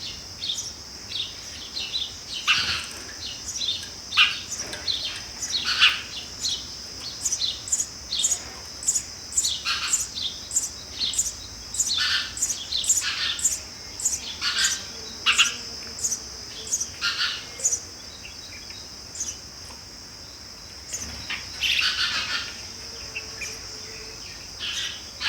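Sparrows chirping, a long run of short, repeated chirps with brief lulls, over a steady high-pitched insect drone.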